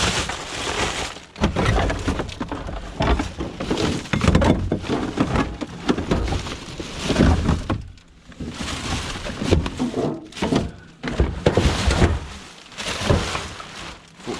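Irregular clattering and knocking of hard scrap items being rummaged through and moved about.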